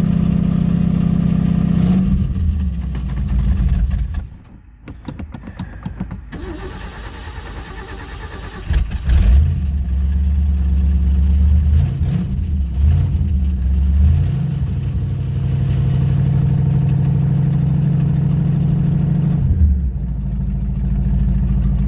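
Old truck engine running, then dying down about four seconds in; after a few seconds of low, uneven ticking it comes back loudly about nine seconds in, revs up and down a few times, and settles into a steady idle.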